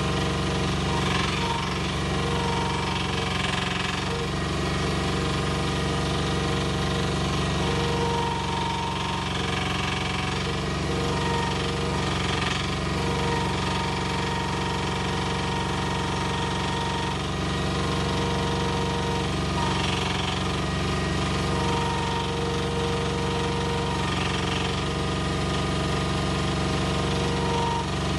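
Mini excavator's Koop 195 single-cylinder diesel engine running steadily with a hard, chugging knock. A higher whine rises in and drops out every few seconds as the hydraulic functions are worked and the pump takes load.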